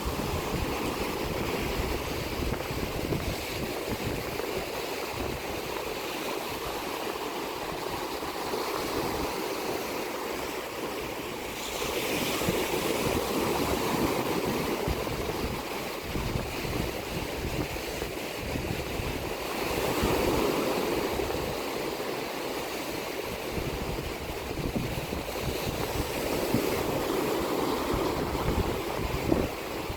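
Sea waves washing onto the shore in a steady rush, swelling three times as bigger waves break.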